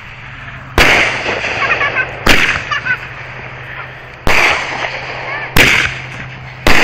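A multi-shot consumer fireworks cake firing: five sharp booms spaced one to two seconds apart, each trailing off in a short crackle.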